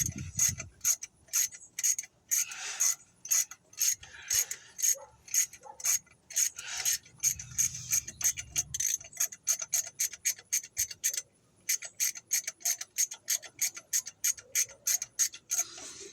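Hand ratchet wrench clicking in quick, steady strokes as a bolt is turned, with a short pause about eleven seconds in.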